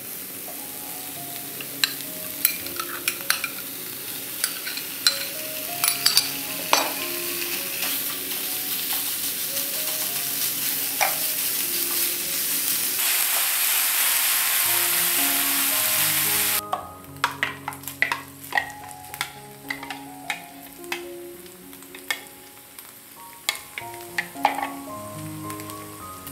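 Oil sizzling as minced garlic, onion and ground pork fry in a non-stick pan over medium heat, with the scrape and tap of a silicone spatula stirring them. The sizzle grows louder and then cuts off abruptly about two-thirds of the way in. After that the spatula's clicks against the pan continue over soft background music.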